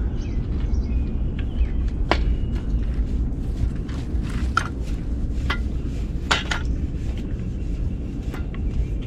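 Scrapes and knocks of tools working soft ground, a few at a time, over a steady low rumble.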